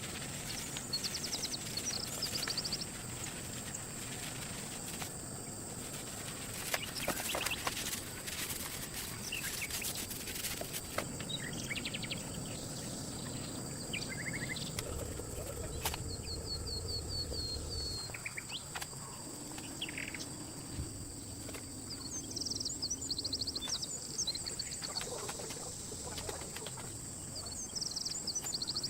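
Small birds chirping in short, quickly repeated notes several times, over a steady high-pitched drone. A run of sharp clicks and knocks sounds around the middle.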